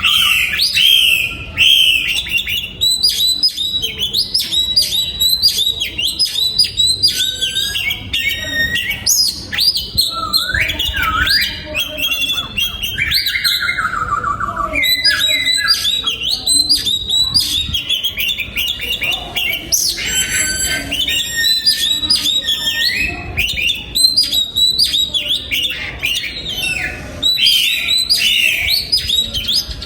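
Oriental magpie-robin singing: a continuous, varied run of whistled phrases, with rising and falling glides broken by short pauses and mixed with harsher, chattering notes.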